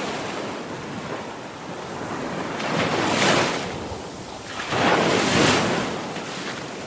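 Sea waves surging and receding, with two swells of surf about three and five seconds in.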